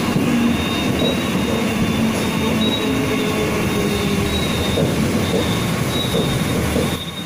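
Mumbai suburban local train running, heard from inside the coach: a steady rumble of wheels on track with a thin high-pitched whine over it. The noise gets quieter about seven seconds in.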